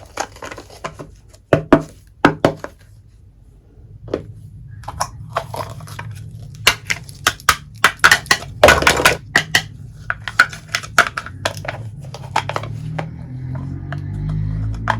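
Small hard pieces of a miniature toy kitchen set clicking and clinking as they are handled, in a quick irregular run of sharp taps. A low steady hum comes in a few seconds in, and music fades in near the end.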